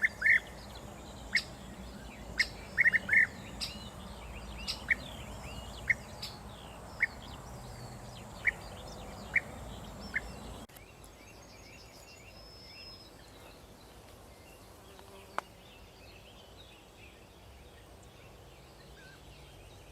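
European bee-eaters calling: short, sharp notes, some single and some in quick runs of four or five, over a low steady background noise. About ten seconds in the sound changes abruptly and turns quieter, leaving only faint high bird calls.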